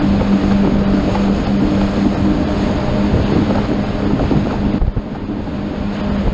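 Boat engine running steadily under way, a constant hum under heavy wind on the microphone and rushing water, with a brief dip in the noise near the end.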